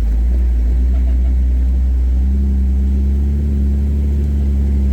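Jeep's engine and drivetrain running at low speed on a steep off-road trail, heard from inside the cab as a steady low rumble. A hum comes in a little higher about two seconds in.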